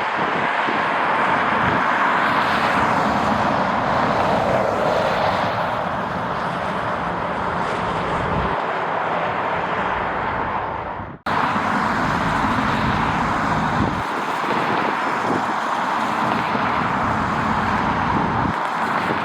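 Jet airliner engines running, a steady rushing noise that cuts off abruptly about eleven seconds in and starts again at once.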